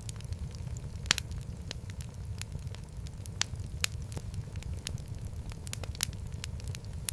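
Wood fire crackling in a fireplace: a steady low rumble of the flames with irregular sharp pops and snaps, the loudest pop about a second in.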